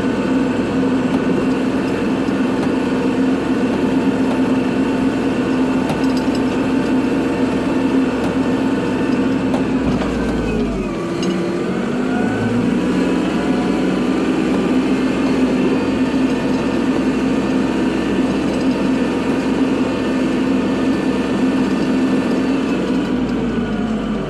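Kubota tractor's diesel engine running steadily at working revs while plowing snow. About ten seconds in the revs dip and then climb back, and they drop again right at the end.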